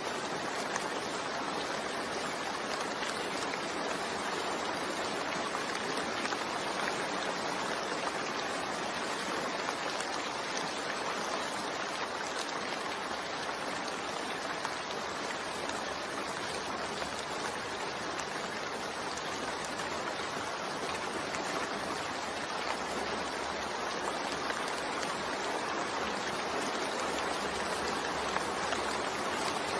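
Steady rain falling, a constant even hiss of water that neither builds nor fades.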